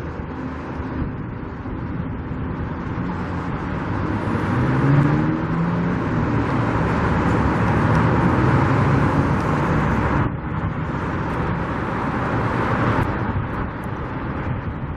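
Road traffic: motor vehicles driving past, their engine and tyre noise swelling through the middle, with an engine's pitch rising as one accelerates.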